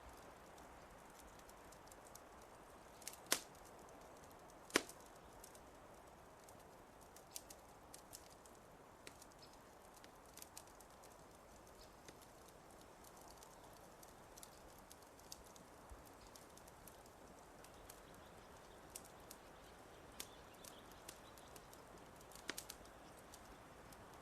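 Fireplace fire crackling: a soft steady hiss with scattered sharp snaps and pops, two loud pops a few seconds in and a cluster near the end.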